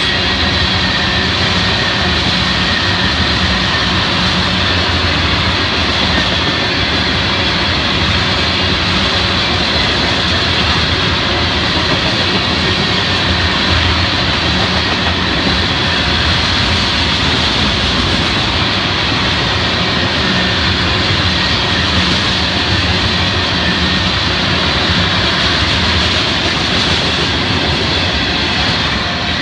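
Florida East Coast Railway freight train's tank cars rolling past: a steady, loud rumble and clatter of steel wheels on rail.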